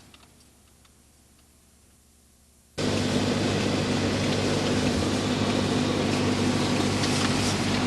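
Near silence, then a sudden cut at about three seconds to a steady rushing noise with a low hum.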